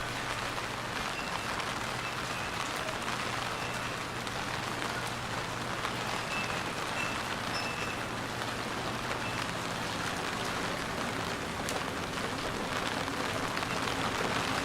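Steady rain falling, an even hiss of drops, with a low steady hum underneath that fades out about ten seconds in.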